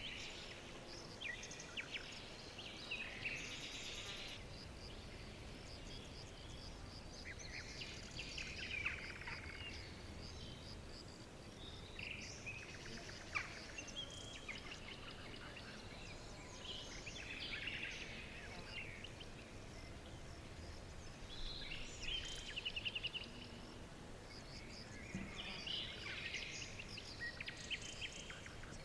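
Several songbirds chirping and trilling in scattered bursts of song every few seconds over a faint steady background hiss of forest ambience.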